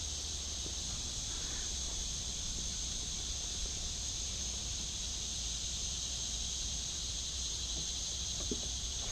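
Chorus of insects such as crickets, a steady high-pitched drone that never breaks, with a few faint ticks.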